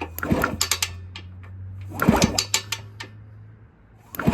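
Two bursts of mechanical clatter as the Minarelli P4-70 two-stroke engine of a 1974 Indian SE74 is turned over with its spark plug out, for a spark check. The engine is described as a little crunchy inside. A steady low hum runs underneath and fades near the end.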